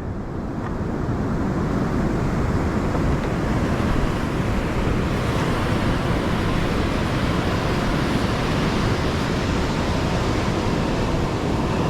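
Surf breaking on the beach in a heavy shore break: a steady, loud wash of waves that fades in over the first couple of seconds, with some wind on the microphone.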